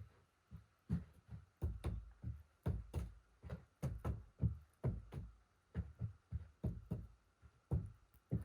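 Footsteps through snow: a steady run of soft, low thuds at about three steps a second.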